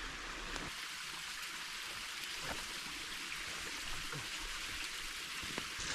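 Creek water running in a steady rush, with a few faint clicks.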